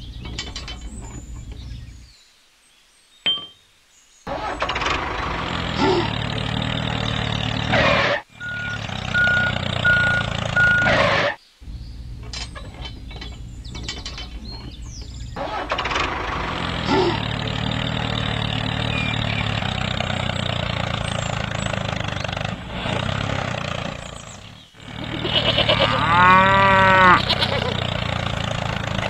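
A steady mechanical running sound broken by several abrupt cuts, then a cow mooing in one long call near the end.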